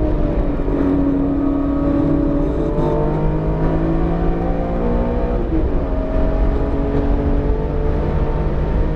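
BMW E46 M3's S54 straight-six engine pulling under load on track, its pitch climbing slowly, dropping sharply about five and a half seconds in at a gear change, then climbing again, over steady road rumble. The freshly built engine is still being broken in and is held below 7,000 rpm.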